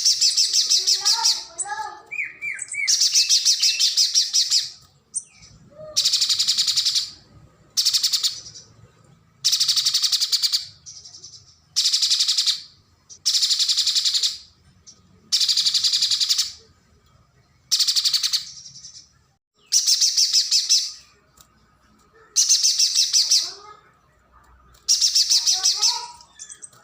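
Spiderhunter (pijantung gunung) calling: a run of loud, high-pitched rapid chattering bursts, each about a second long and repeated about every two seconds. A few lower, sliding whistled notes come near the start and again near the end.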